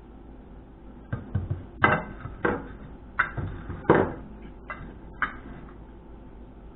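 A run of about ten sharp clicks and knocks over some four seconds as parts of a fluorescent light fixture are handled, the loudest two about two seconds apart.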